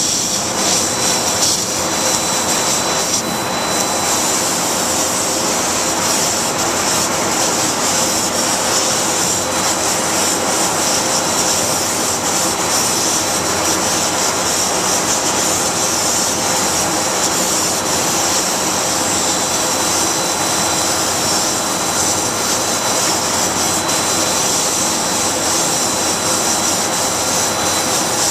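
LVD laser cutting machine running, a steady loud rushing hiss with a thin high whine.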